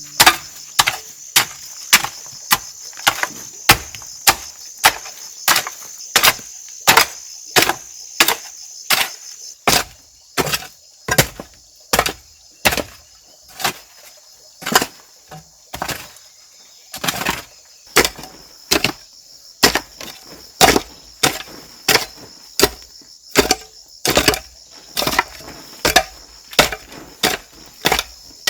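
A steady series of chopping blows on wood, about two a second with a few short pauses, over a steady chirring of crickets.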